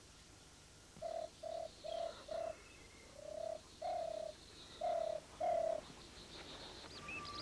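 A bird cooing, dove-like: four short soft coos in quick succession, then two pairs of longer coos.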